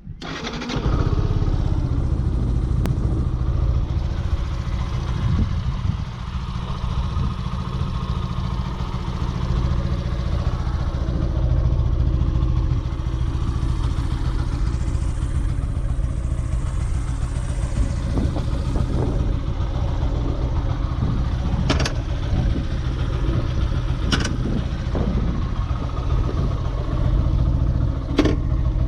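Yamaha FZS V3's single-cylinder engine and exhaust running steadily as the motorcycle is ridden. The sound comes up sharply about a second in, and a few sharp clicks are heard near the end.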